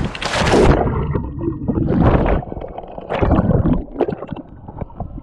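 A person jumping into a pool of water: a loud splash at the start, then water churning and slapping in further bursts about two and three and a half seconds in.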